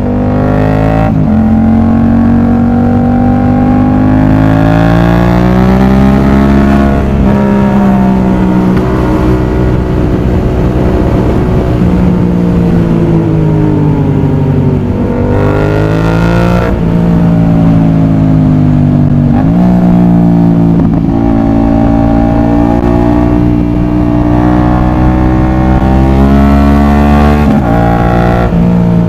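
Yamaha MT-07's CP2 parallel-twin engine through an aftermarket exhaust, under way: the engine note climbs steadily and then drops back sharply about half a dozen times, as the bike pulls through the gears.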